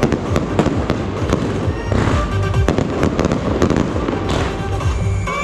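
Aerial fireworks crackling overhead: a dense, continuous rattle of sharp pops from glittering crackle-effect shells bursting in the sky.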